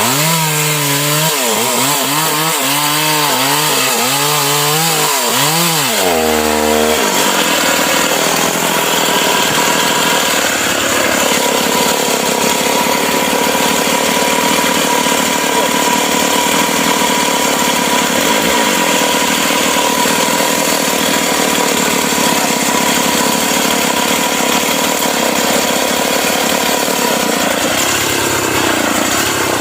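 Two-stroke Stihl MS 381 chainsaw blipping its throttle up and down for the first several seconds, then held at steady full revs while cutting through sengon wood, easing off near the end.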